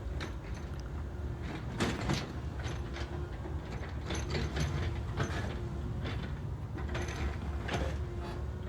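Backhoe loader running with a steady low engine rumble, overlaid by repeated metallic clanks and creaks from its moving linkage, about one every second or so.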